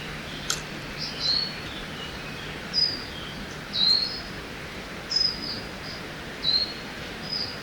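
Songbirds giving short, high chirps, some dropping in pitch, about seven through the clip, over the steady rush of a river in a forest. A single sharp click comes about half a second in.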